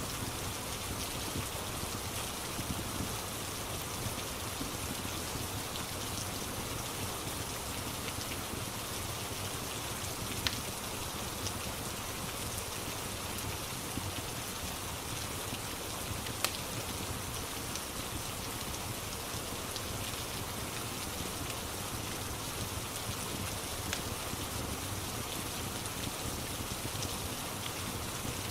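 Steady rain ambience, a dense even hiss of falling rain, with a couple of sharp crackles from a wood fire, about ten and sixteen seconds in.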